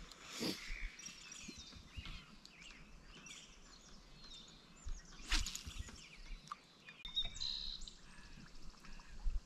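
Quiet outdoor ambience with scattered bird chirps, and two sharp knocks, one about half a second in and a louder one about five seconds in.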